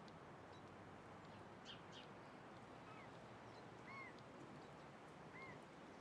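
Faint songbird calls over a steady outdoor background hiss: a few thin high chirps, then two short notes that rise and fall, about a second and a half apart.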